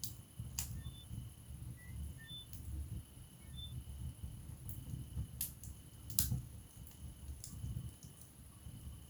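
Wood fire burning in a fireplace: a low rumble of flames with a few sharp crackles and pops. One pop comes early, then a cluster of pops follows about five to seven and a half seconds in, the loudest about six seconds in.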